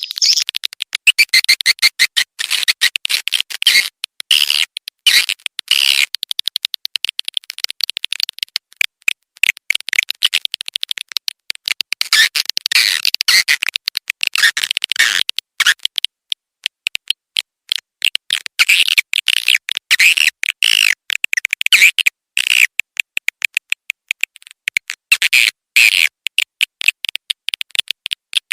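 Swiftlet call-lure recording: a rapid, dense stream of short, high twittering chirps from swiftlets, with only brief breaks.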